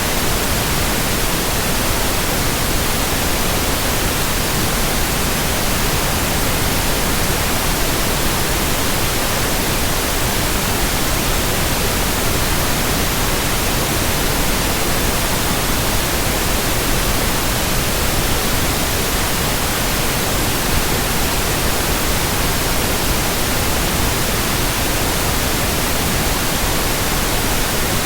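Steady white noise: an even, unchanging hiss spread across all pitches, with no rhythm, tones or separate events.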